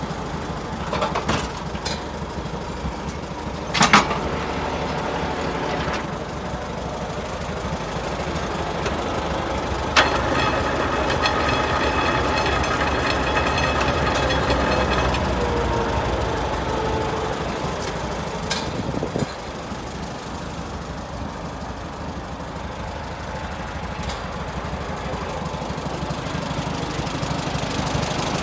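1954 Allis-Chalmers WD-45 tractor's four-cylinder engine idling, then running faster from about ten seconds in and dropping back to idle a little before twenty seconds in. A sharp knock sounds about four seconds in, and another click comes as the engine speeds up.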